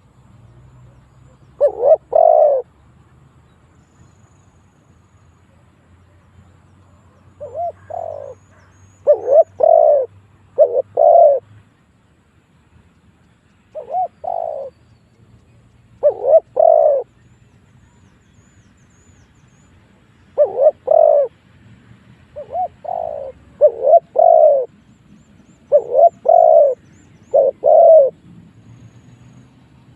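Spotted dove cooing: short, low coos in groups of two or three, repeated every few seconds.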